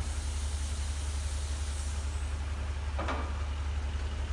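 Mercedes SL55 AMG's supercharged V8 idling through its new stainless-steel exhaust: a steady, even low rumble.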